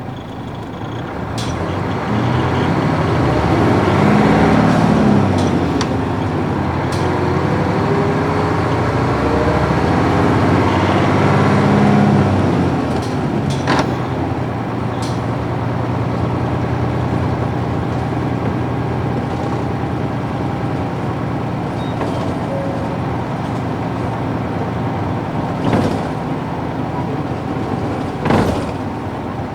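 Nissan Diesel UA440 city bus's PF6 diesel engine heard from inside while under way: pulling off, the engine note rises and drops back several times as the five-speed manual gearbox shifts up, then settles into a steady cruise. A few short clicks or knocks from the bus body stand out.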